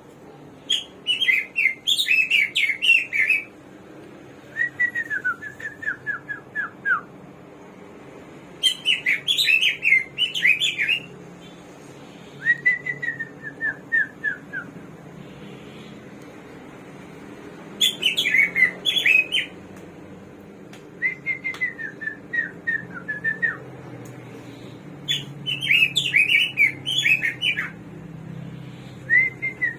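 Samyong songbird singing in repeated bouts: a loud, fast jumble of whistled notes, then a softer run of short notes stepping down in pitch, the pair of phrases coming about five times.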